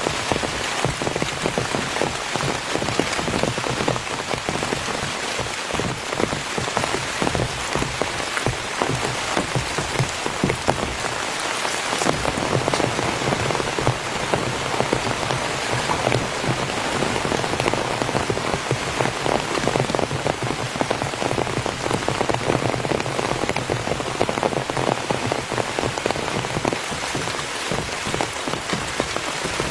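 Heavy rain drumming on a tent, a dense steady hiss of countless drops striking.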